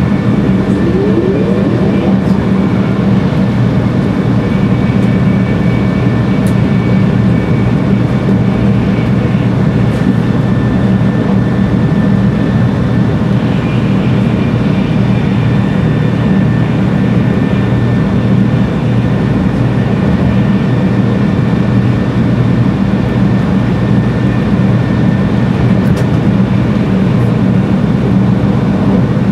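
Cabin running noise inside a 300 series Shinkansen motor car travelling at speed: a loud, steady rumble of wheels and rail, with a low hum and a few faint steady high whining tones from the traction equipment.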